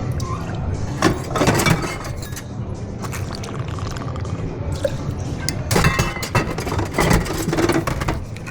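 Ice and glassware clinking in two bursts of sharp clinks, about a second in and again around six seconds in, over a steady low background.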